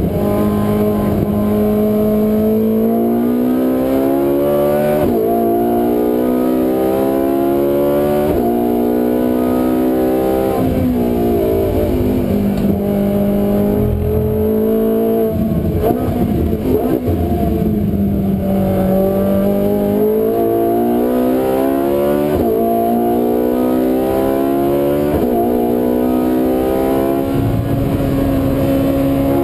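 Ferrari 458 Italia's 4.5-litre V8, breathing through an Akrapovic exhaust, driven hard on track. The engine note climbs repeatedly as the car accelerates, breaks off at each quick gear change, and sinks when the car slows for corners before rising again.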